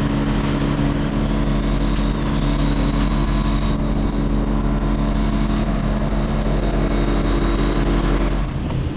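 Large machinery engine running steadily at a constant speed, with a faint high whine above it; the sound cuts off abruptly near the end.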